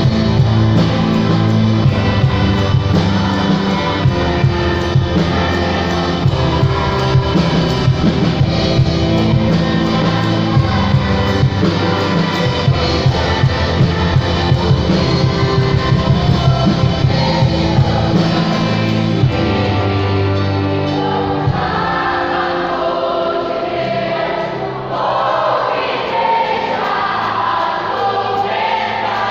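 A church choir singing a worship song with a full band of drums, bass and guitar. About two-thirds of the way through, the bass and drums drop back and the voices stand out.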